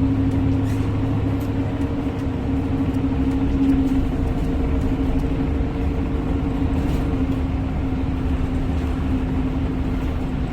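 City bus heard from inside the cabin while moving: a steady engine and drivetrain hum over low road rumble. A higher hum fades out about two-thirds of the way through.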